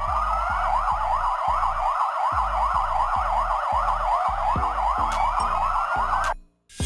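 Police car siren wailing in a fast yelp, its pitch sweeping up and down about four times a second, cutting off suddenly near the end.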